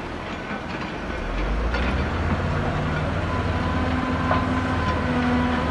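Heavy diesel machinery running under load, its low engine rumble rising about one and a half seconds in, with a steady whine and a few faint metallic clanks.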